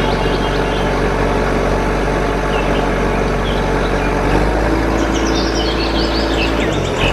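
A motor runs steadily with a low hum, and its pitch shifts about four seconds in. Birds chirp over it.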